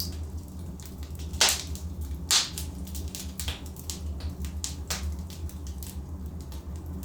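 Logs burning in a fireplace, crackling with sharp pops scattered throughout; the two loudest pops come about a second and a half and two and a half seconds in. Under the pops runs a steady low rumble.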